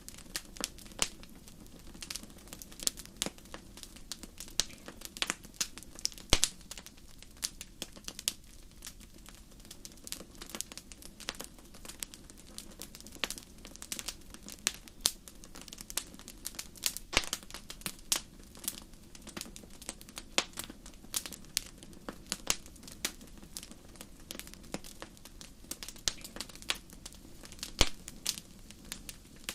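Wood fire crackling in a fireplace: irregular sharp pops and snaps over a steady low hiss, a few louder pops standing out.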